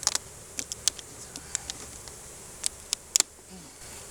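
Honeybees humming steadily in an open hive, over a dozen or so sharp, irregular clicks and taps, clustered near the start and about three seconds in.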